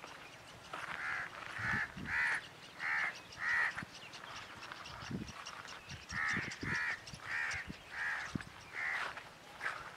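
A bird calling in two runs of loud, evenly spaced calls, about five in quick succession, a pause, then about six more.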